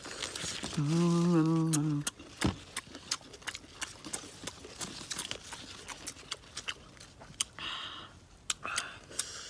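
Close-up chewing of raw green jackfruit with mouths full: sharp wet clicks and crunches throughout, heavier near the end. About a second in there is a short hummed "mmm" of enjoyment.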